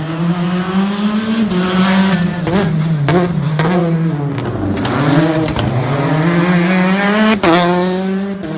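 Citroën DS3 R5 rally car's turbocharged four-cylinder engine being driven hard, its pitch climbing and falling with throttle and gear changes. It drops low about halfway through, then climbs again. A few sharp cracks come early on, and there is a sudden break near the end.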